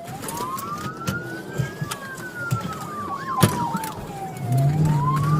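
Police car siren wailing, one slow full rise and fall, with scattered sharp clicks and knocks; near the end a car engine revs up under it.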